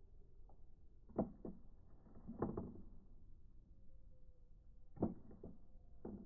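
A few short, dull knocks and clatters in small clusters: about a second in, in the middle, and twice near the end, over a low room hum.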